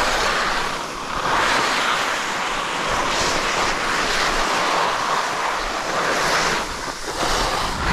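Rushing noise like wind buffeting the microphone, swelling and easing every second or two.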